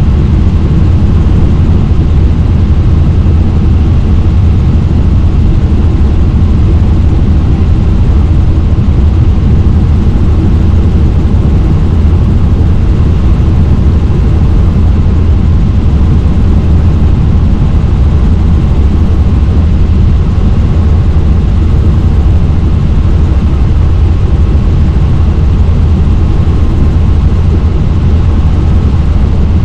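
Helicopter in flight: steady, loud rotor and engine noise, heaviest in a low hum, with no change in pitch or level.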